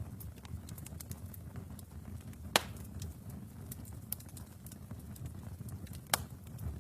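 Wood fire burning in a fireplace: a steady low rumble of flames with constant small crackles, and two loud pops, one a little before the middle and one near the end.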